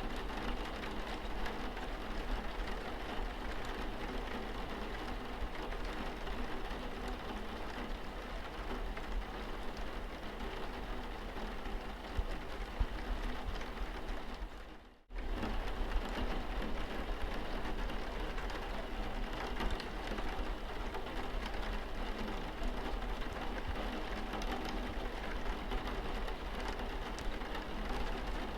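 Steady rain falling on a car's windscreen. The sound cuts out for a moment about halfway through, then carries on unchanged.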